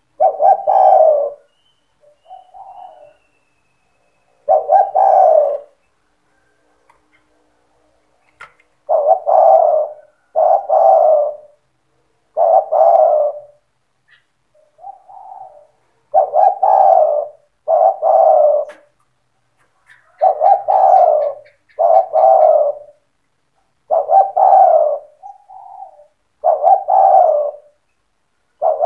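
Spotted dove cooing over and over: loud coo phrases of about a second each, several coming in quick pairs, with fainter short notes in between and a pause of a few seconds early on.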